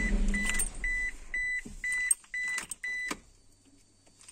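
Car engine switched off, its running hum stopping right at the start, followed by seven evenly spaced high electronic beeps, about two a second, that stop about three seconds in, with a few light clicks between them.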